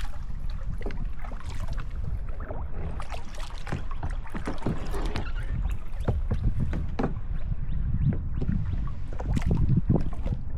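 Kayak paddling: paddle blades dipping into the water with irregular splashes and drips, over a steady low rumble.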